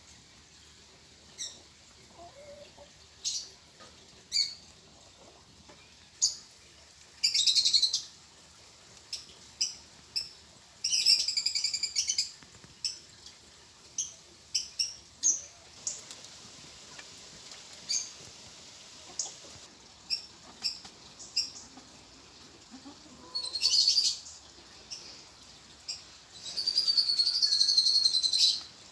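Small birds chirping: short high calls scattered throughout, with several bursts of rapid twittering, the longest near the end.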